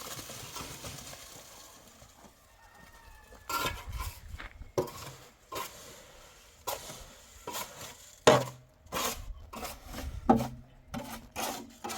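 Irregular knocks and clatter of building work, starting a few seconds in: about a dozen sharp strikes at uneven intervals, some with a short ring.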